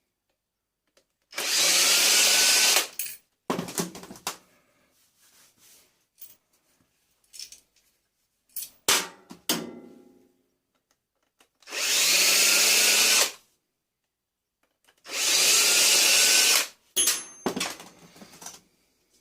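Power drill run in three short bursts of about a second and a half each, its motor whine rising as it spins up each time, with metal clinks and knocks between the bursts.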